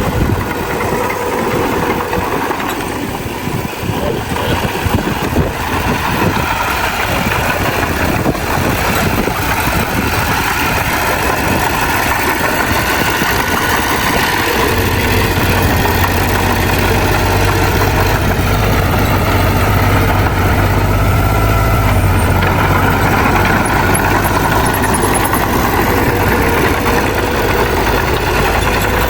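Heavy diesel earthmoving machinery running steadily. A deep steady hum grows stronger about halfway through and holds.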